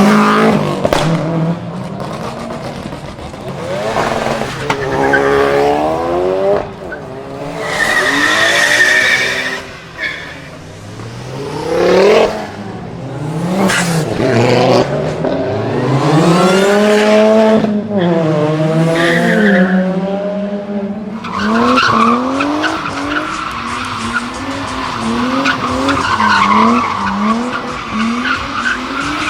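Car engines revving and accelerating hard, their pitch climbing and dropping again and again as gears change. In the last third a high, wavering squeal runs along under the engines, like tyres spinning.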